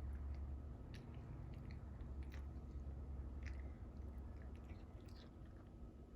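A cat chewing and eating cooked salmon: faint, irregular wet clicks and smacks of its mouth, over a low steady hum.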